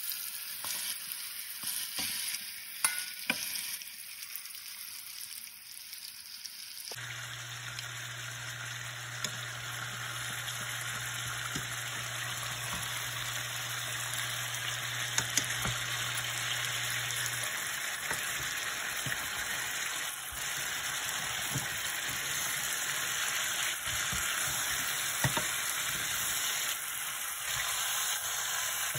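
Chicken drumsticks frying in a stainless steel pan and being turned with a wooden spatula: a steady sizzle, quieter for the first several seconds, with occasional knocks and clicks against the pan.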